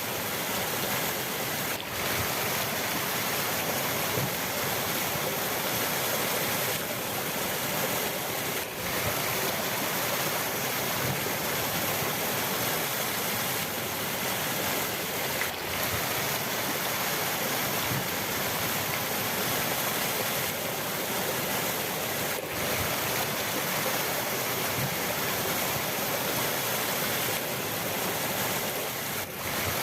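River water rushing steadily, an even noise with no pauses; it dips faintly for an instant about every seven seconds.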